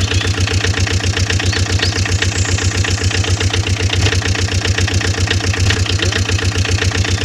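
Tractor engine chugging steadily in a fast, even beat of about nine pulses a second.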